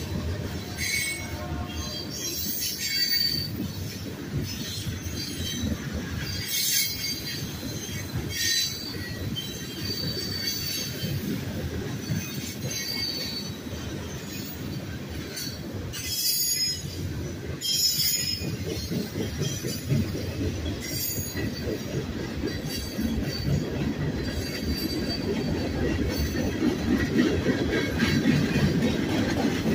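Freight cars of a Union Pacific manifest train rolling past. Their steel wheels make a steady rumble on the rails, broken by repeated short, high-pitched wheel squeals. The rumble grows louder near the end.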